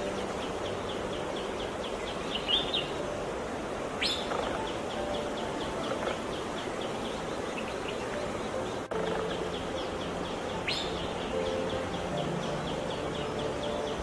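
Wild birds calling. A rapid, high ticking trill of about five notes a second repeats throughout, and two sharp downslurred calls come about four and eleven seconds in, over faint low steady tones.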